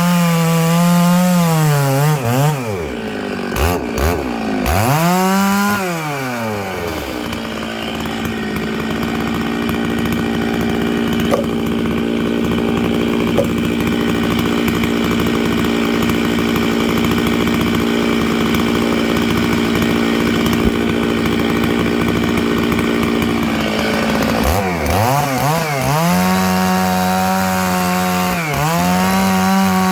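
Stihl MS 660 two-stroke chainsaw running at high revs, rip-cutting a dry larch log along the grain. The pitch dips and climbs back several times in the first few seconds and again near the end, and holds steady through a long cut in between.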